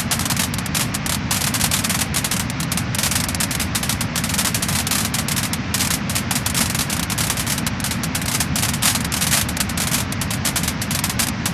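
Wood fire crackling and popping: a dense run of quick, irregular crackles over a steady hiss and low rumble.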